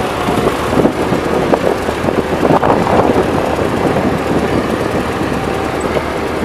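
Tractor engine running steadily at low speed.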